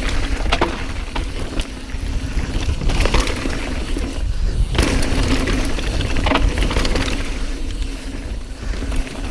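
Mountain bike riding down a rough trail: wind and tyre rumble with clattering and clicking over bumps. A low tone from the rear brake comes and goes, a noise the rider calls horrific.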